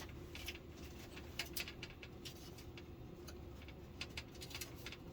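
Scattered light clicks and taps of LED backlight strips and their plastic connectors being handled and fitted into an LCD TV, with a small cluster of quick clicks near the end.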